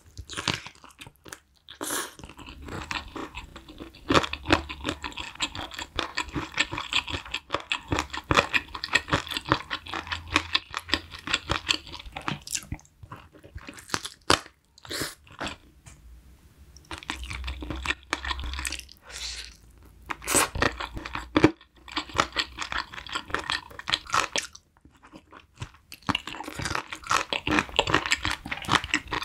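Close-miked chewing of spicy braised chicken eaten off the bone, with moist crunching in long runs broken by a few short pauses.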